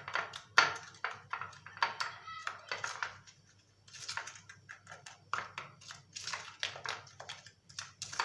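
Spoon stirring alum powder into body lotion, scraping against the container in many quick, irregular strokes, with a short pause about three seconds in.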